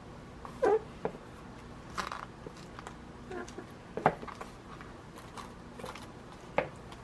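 Handling sounds of small objects on a work table: a few separate short knocks and taps, the sharpest about four seconds in, as the canvas and tools are set in place.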